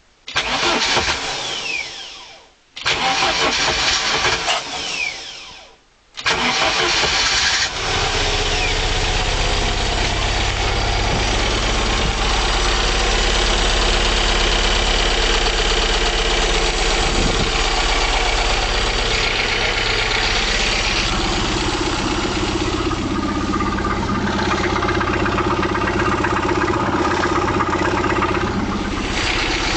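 Volvo Penta B20 marine four-cylinder petrol engine being cold-started after 15 years standing: two bursts of cranking that each die away with a falling whine, then on the third try, about six seconds in, it catches and settles into a steady idle.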